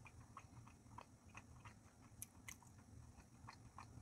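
Faint chewing of sushi: soft mouth clicks and smacks, with two sharper clicks about two seconds in.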